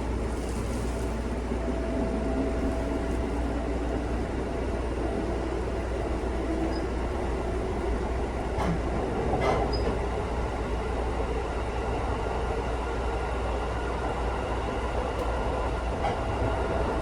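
An electric local train running between stations, heard from inside the carriage: a steady rumble of wheels on the rails at an even level. Two short sharp clicks come about nine seconds in.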